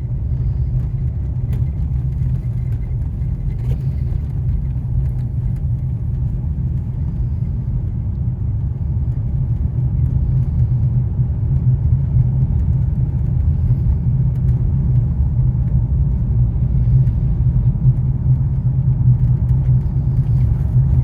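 Steady low rumble of a car driving, its engine and tyres on the road heard from inside the cabin, growing slightly louder past the middle.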